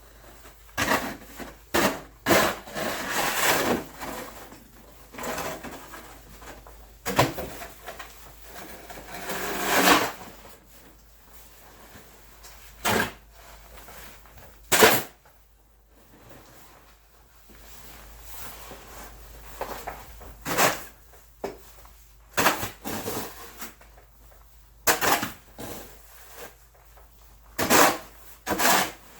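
Snow shovel scraping and pushing snow in irregular strokes, some short and some drawn out over a second or two, with pauses between them.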